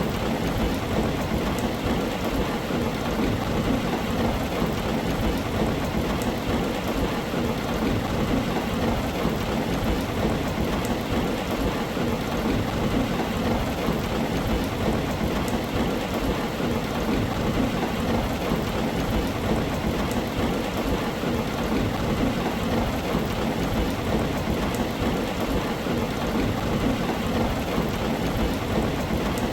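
Heavy rain falling steadily on a tin roof, a dense even patter with no letup, over a continuous low rumble of thunder.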